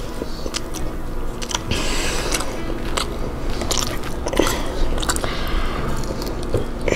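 A person biting and chewing chicken nuggets close to a clip-on microphone, with irregular wet mouth clicks and smacks.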